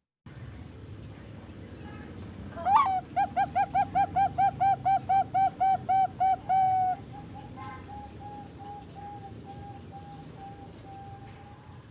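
Young Bangkok zebra dove (perkutut) cooing: a rising opening note, then a fast, even run of about fourteen loud coos, about three a second, followed by fainter coos at the same pitch.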